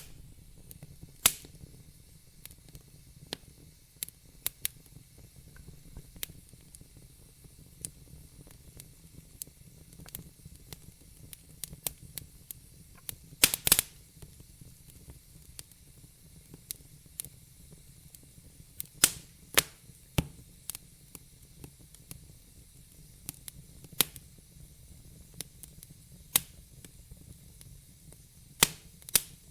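Wood fire crackling in a fireplace: irregular sharp pops and snaps over a faint low rumble and hiss, with a quick cluster of louder pops about halfway through.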